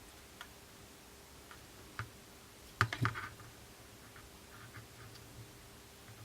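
Light clicks and taps of small tools and tiny screws being handled on a work surface during phone reassembly, with a short clatter of several clicks about three seconds in.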